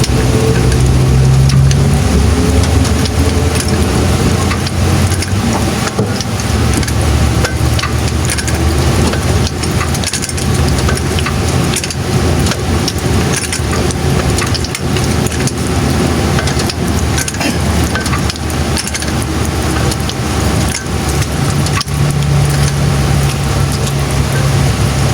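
Steady rain falling, with many small drop clicks, over the low, steady running of a vehicle engine.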